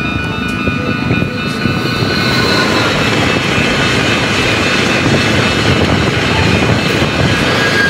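Electric passenger train passing close by a level crossing: a loud, steady rumble of wheels on rails that builds over the first couple of seconds, with several steady high tones ringing above it.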